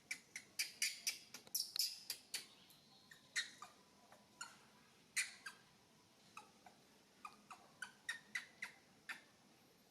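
Monkey giving rapid high-pitched squeaks and chirps, several a second in bunches, with a short pause about halfway through.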